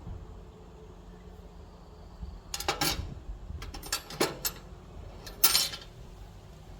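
Metal hand tools clinking and rattling against each other in three short clusters of clicks, over a steady low hum.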